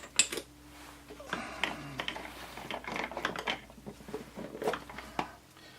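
Irregular small clicks, taps and rustles of parts and a lubricant container being handled while lube is applied to a power steering pump O-ring.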